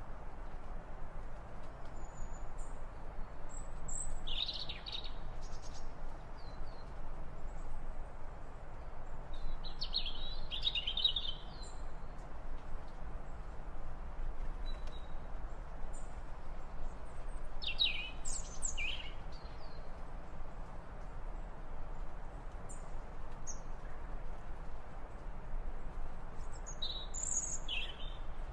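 Birds giving short, high chirping calls in small clusters every several seconds, over a steady background rush of noise.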